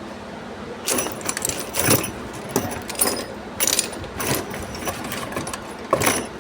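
Metal tools and engine parts clinking and clattering against each other as they are handled, a run of irregular sharp strikes with a ringing metallic tone, from about a second in until near the end.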